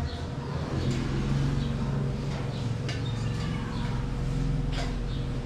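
Steady low machine hum, even and unchanging, with a few faint light clicks over it.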